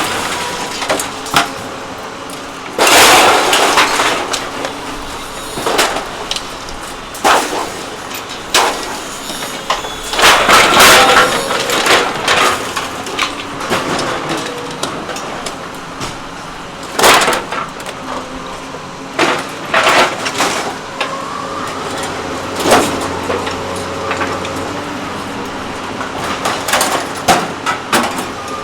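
Hydraulic scrap-metal crusher working: irregular loud metallic bangs, crunches and scraping as metal is cut and crushed, over the steady drone of the running machine.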